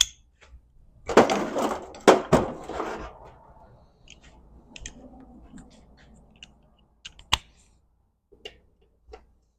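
Metal tool clanks and clicks from a breaker bar and socket being set on and pulled against a seized bolt. The loudest is a noisy, clattering stretch in the first few seconds, followed by scattered light clicks and one sharp click later on.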